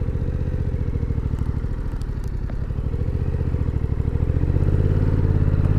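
Suzuki motorcycle engine idling steadily, a low, even, pulsing run with no change in pitch.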